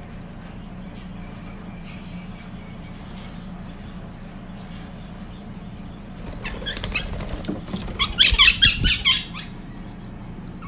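Quaker parrot flapping its wings in a burst of rapid strokes that starts about two-thirds of the way in and is loudest just before the end.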